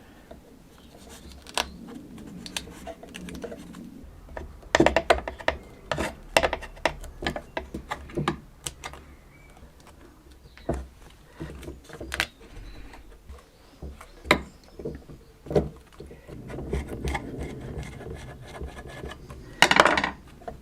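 Hands working on parts: scattered sharp clicks, taps and knocks of parts and tools being handled, with stretches of soft rubbing. A quick cluster of louder knocks comes near the end.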